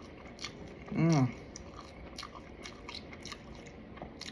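Close-up eating sounds: chewing and biting into fried food, with scattered small crunchy clicks, and a short hummed 'mm' about a second in.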